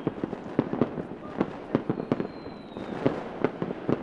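Fireworks going off in rapid, irregular bangs and pops, with a faint high whistle that dips slightly in pitch about two seconds in.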